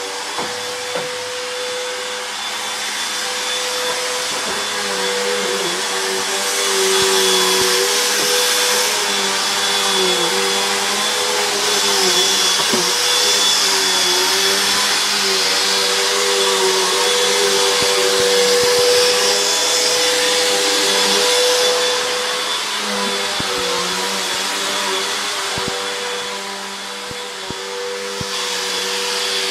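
Upright vacuum cleaner running continuously with a steady motor whine and airflow hiss; the hiss gets louder for a stretch in the middle as the vacuum is pushed over the floor, with small dips in the motor's pitch and a few light knocks.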